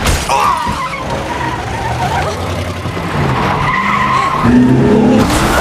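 A car skidding, its tyres squealing, over a running engine.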